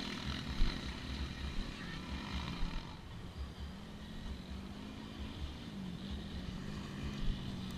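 Motocross dirt bike engines running on the track, their pitch rising and falling gently as the riders work the throttle.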